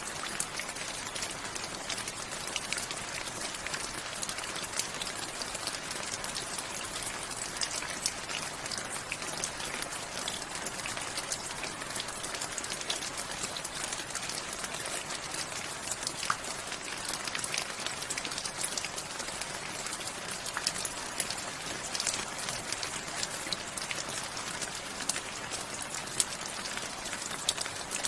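Steady rain falling, a dense even patter with many individual drops striking close by.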